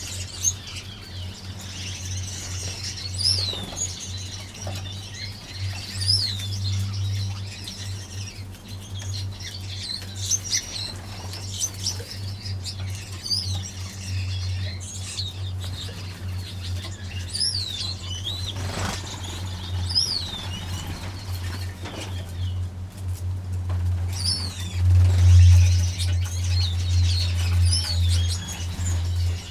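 Aviary finches chirping with short calls, some rising and some falling, scattered throughout, with wings fluttering as birds fly about. Under it runs a steady low rumble that swells about 25 seconds in.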